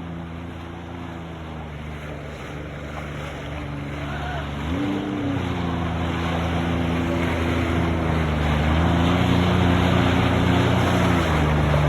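Jet ski engine running under way and speeding up: its pitch steps up about five seconds in and the sound grows steadily louder, over rushing water and wind on the microphone.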